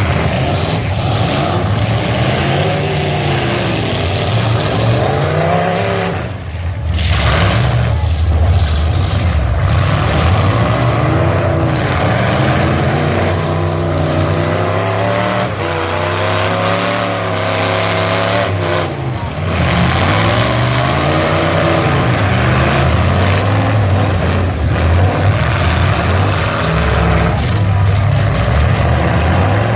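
Several full-size pickup truck engines revving hard as the trucks race around a track, their pitches rising and falling and overlapping, with short lifts off the throttle about six and nineteen seconds in.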